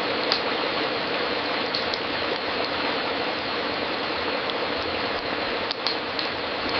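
Wood fire in a fireplace crackling: a steady hiss with scattered sharp pops, a few close together near the end.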